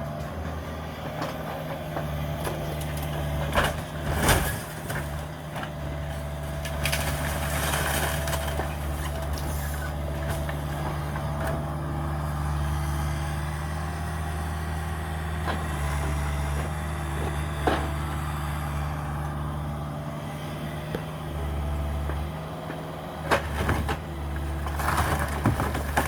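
Cat 305 mini excavator's diesel engine running steadily with a hydraulic whine. Scattered knocks and crunches come through, the loudest a few seconds in and near the end.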